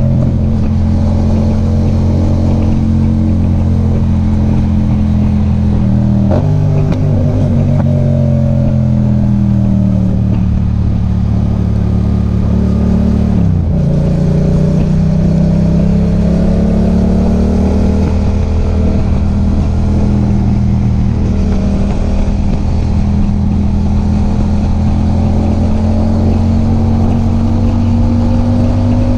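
A Yamaha MT-07's parallel-twin engine on the move, with wind and road noise. Its note sinks slowly, drops sharply about halfway through, then climbs steadily as the bike speeds up.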